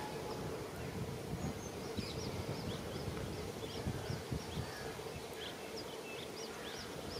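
Small birds chirping in many short, quick, high calls over a low, uneven rumble with a faint steady hum.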